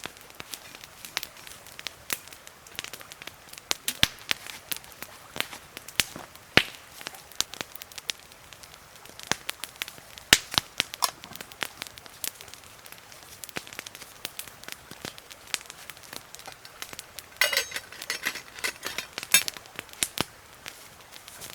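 Irregular crackling: scattered sharp pops and clicks, with a denser flurry of rapid crackles about three-quarters of the way through.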